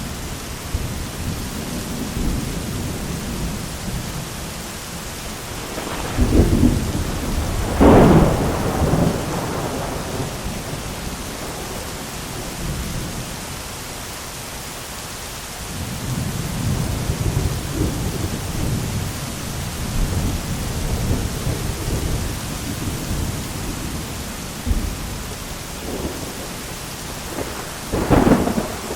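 Thunderstorm: steady heavy rain with rolling thunder rumbling low, and sharp thunderclaps about six and eight seconds in and again near the end.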